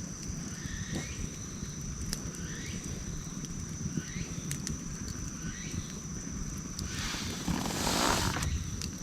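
Wood campfire burning, with scattered sharp crackles over a steady low rumble, and a loud hissing whoosh about seven seconds in that lasts about a second and a half. A steady high tone and faint short rising chirps, repeating less than a second apart, run in the background.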